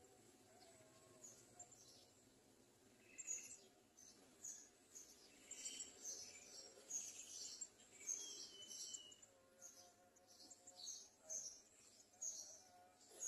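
Garden sunbirds at the nest giving faint, thin, high-pitched chirps, repeated quickly from about three seconds in, over a faint steady hiss.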